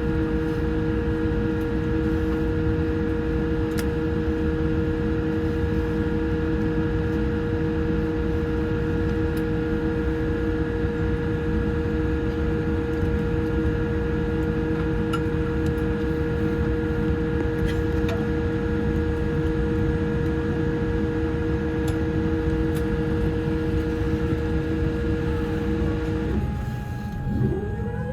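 Cabin noise inside a Boeing 787-8 airliner on the ground: a steady rumble with two steady hums. Near the end the hums cut off and a rising whine starts.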